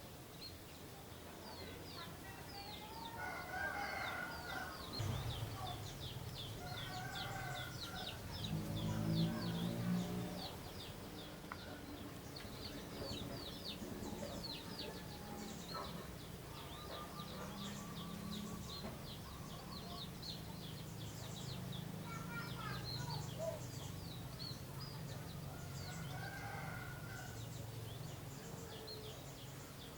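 Roosters crowing several times in the background, over rapid, continuous high chirping of small birds. A low steady drone runs beneath from about five seconds in.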